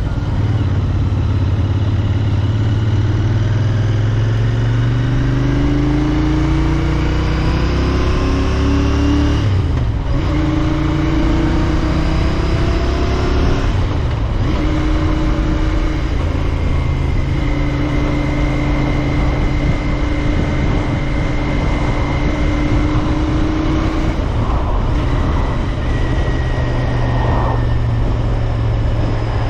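Royal Enfield Interceptor 650's parallel-twin engine under way, revs climbing and dropping sharply at upshifts about ten and fourteen seconds in, then holding steady at cruising speed, with wind rush over it.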